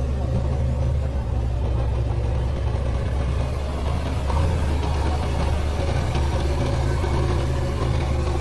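Diesel engine of a JCB 3DX backhoe loader running steadily at a low, even hum.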